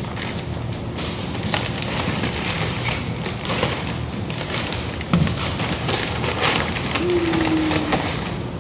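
Cardboard packaging of a new exhaust system being torn open and handled: irregular crackling, tearing and light knocks.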